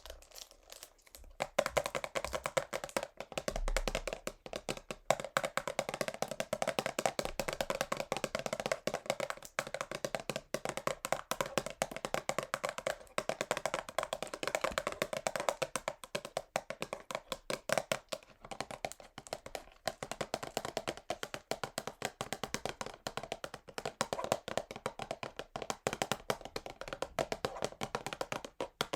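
Fingernails tapping fast on a cardboard perfume box. After a few scattered taps, a dense, rapid run of taps starts about a second and a half in and keeps on.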